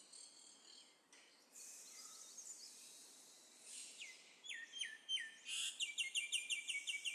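A bird singing: a few separate falling chirps about halfway through, then a fast run of short repeated notes near the end.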